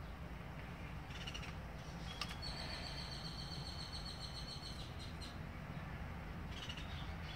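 Birds chirping, with a run of rapid, evenly repeated high notes lasting about two seconds in the middle, over a steady low hum.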